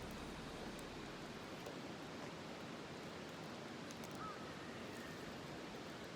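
Faint, steady outdoor ambience: an even rushing noise with a few faint ticks and one short high chirp about four seconds in.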